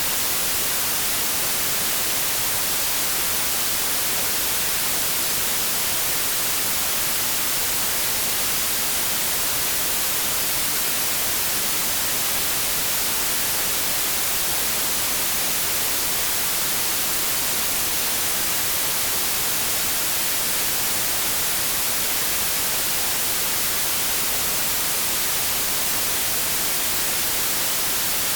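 Continuous synthetic white noise: a steady, even hiss, brightest in the treble, that does not change.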